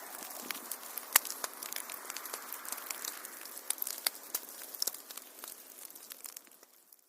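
Wood fire crackling in a fireplace: sharp pops and snaps over a soft hiss, the sound fading away near the end.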